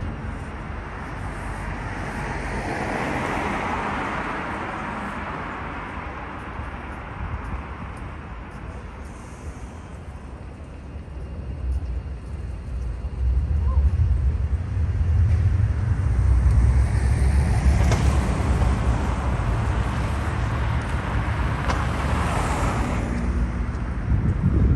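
Road traffic on a city street: a vehicle passes a few seconds in, then from about halfway a heavier low rumble builds as more vehicles go by.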